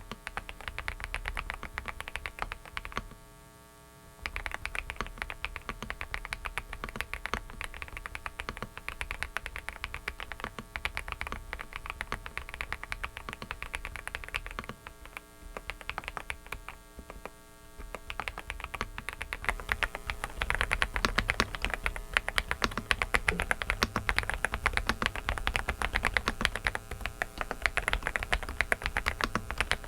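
Fast typing on a Dareu mechanical keyboard: a dense run of key clacks that pauses briefly twice and gets louder about two-thirds of the way through. A steady buzzing noise from a faulty microphone runs underneath.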